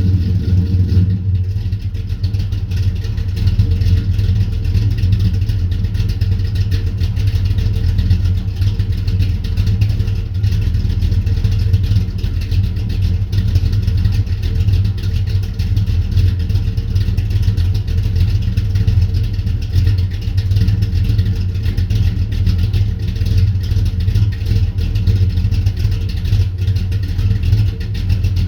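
1970 Dodge Coronet's 440 big-block V8 with a Thumpr cam, headers and a 3-inch full exhaust, running steadily through the exhaust after a cold start, its note settling slightly about a second in.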